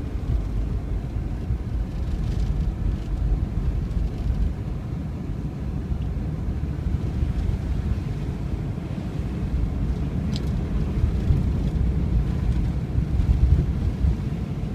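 Steady low rumble of a vehicle driving on snow-covered roads, heard from inside the cab, with a faint click about ten seconds in.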